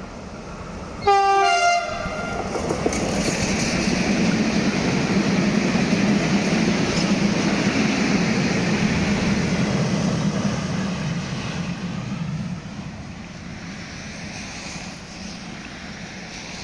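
A train's Makrofon horn gives one short blast about a second in, then the train passes close by with a steady running noise that fades away from about twelve seconds in.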